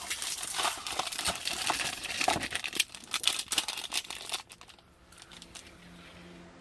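Dense, irregular crinkling and crackling, as of thin material being crumpled or handled, dying away about four and a half seconds in. Soft music starts near the end.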